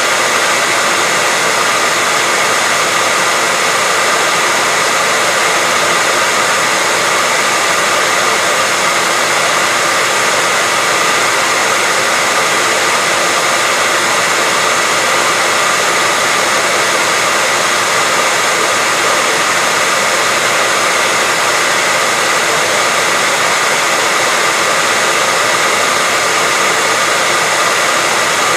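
Hair dryer running steadily: a constant rush of blown air with a steady whine in it, unchanging throughout.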